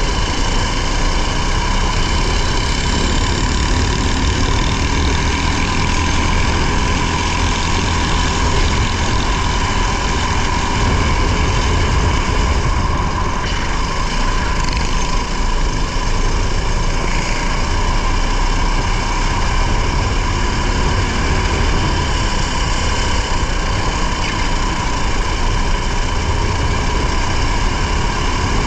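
A racing car's engine and road noise heard from an onboard camera, running steadily with no clear revving up or down.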